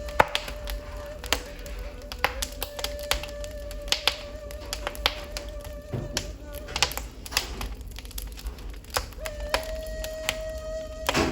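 Wood fire in a fireplace crackling, with frequent sharp pops. Under it a ney flute plays long held notes that pause now and then, with a slightly higher note near the end.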